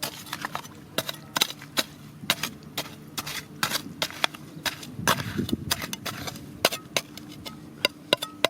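Rapid, irregular sharp knocks and clicks of hard objects striking one another, several a second, over a faint steady hum.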